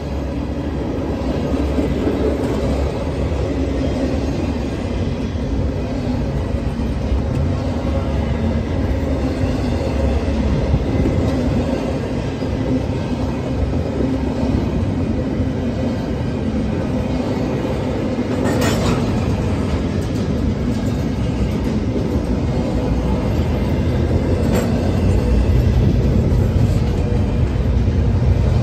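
Freight train of double-stack intermodal well cars rolling past: a steady rumble and clatter of steel wheels on rail. A sharp knock sounds about two-thirds of the way through, and a fainter one a few seconds later.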